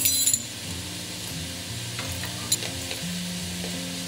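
Diced potatoes, onion and peppers sizzling as they fry in a pan, with a quick clatter of sharp clicks near the start. Quiet background music with steady low notes runs underneath.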